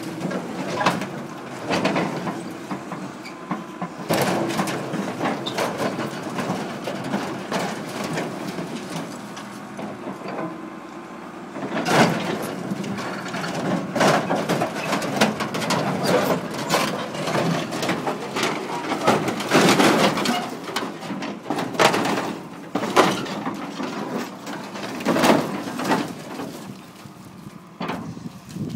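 Combine harvester's sheet-metal body being crushed: irregular crunching, bangs and grinding of metal, with several sharp impacts, the loudest about twelve, twenty and twenty-five seconds in.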